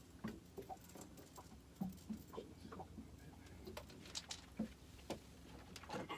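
Scattered light taps and clicks at an irregular pace, with a brief cluster of sharper clicks about four seconds in: small handling noises in a fishing boat.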